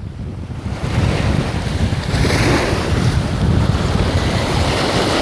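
Wind buffeting the microphone in gusts, over the wash of sea waves on the shore.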